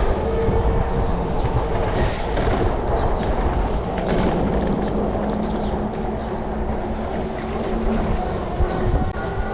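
Steady wind rush and rolling noise from riding an e-bike, with a low steady hum underneath.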